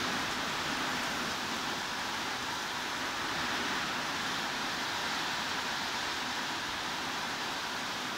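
Steady heavy rain, an even hiss with no single drops or changes standing out.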